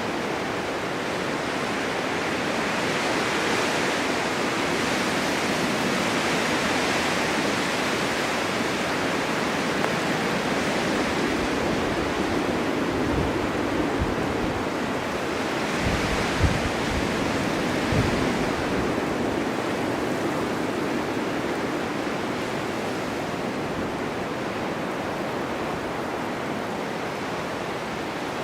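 Blizzard wind blowing snow, a steady rushing hiss that swells and eases, with a few low thumps in the middle.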